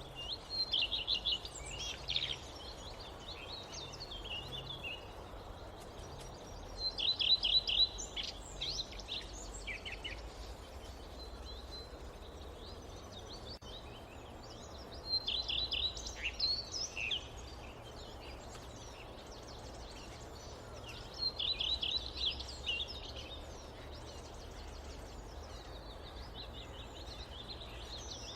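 Forest ambience: a steady background hiss with a low rumble, and a songbird singing a short phrase of rapid, high notes about every six to eight seconds, with softer chirps in between.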